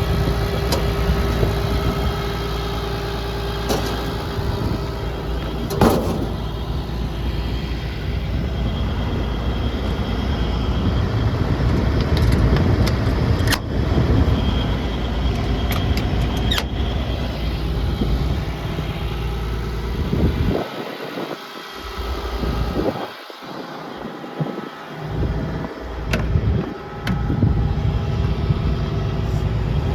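Hitachi Zaxis 200 LC hydraulic excavator's diesel engine idling steadily, with a few sharp clicks. For a few seconds past the middle the low drone thins out and wavers before returning.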